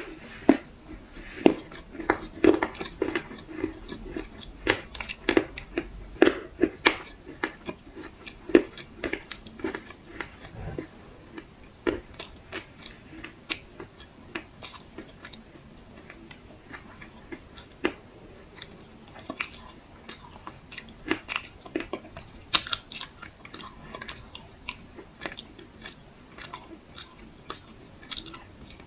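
Close-miked crunchy chewing: irregular, sharp, crisp crunches, several a second, thinning out in the middle and growing dense again later.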